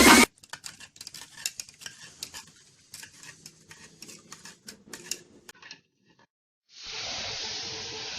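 Light scattered clicks and rustles, then after a brief silence a steady hiss starts about seven seconds in, with a faint hum under it: a paint spray gun spraying.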